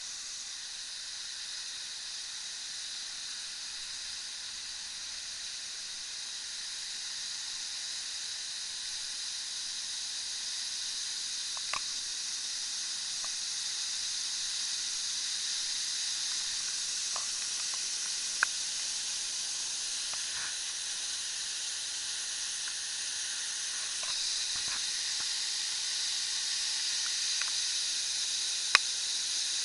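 Waterfall pouring: a steady rushing hiss of falling water that grows gradually louder, with a few brief faint clicks.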